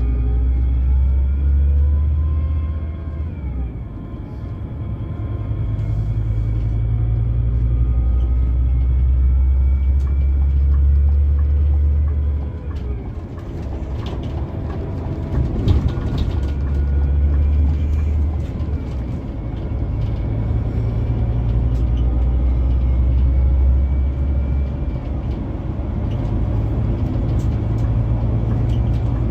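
Scania K360EB4 coach's five-cylinder diesel engine running under way with a deep, loud rumble. It rises in pitch as the coach pulls, then eases off several times, with brief dips in level about 3, 13, 19 and 25 seconds in.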